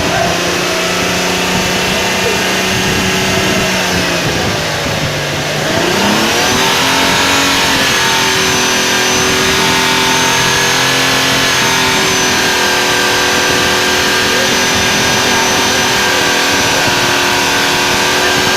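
A motor vehicle's engine running steadily; its speed sags about four seconds in, then picks up again around six seconds and holds.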